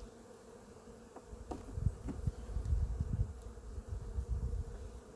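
Honeybees buzzing around an open hive in a steady hum, with irregular low rumbling thumps from about a second in.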